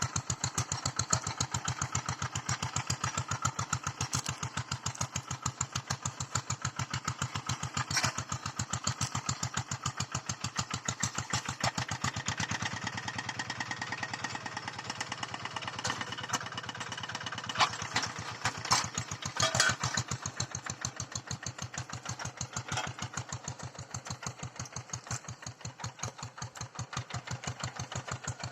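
Small engine of a hand tractor running steadily while plowing, a fast even pulsing beat, with a few sharp clanks about two-thirds of the way through.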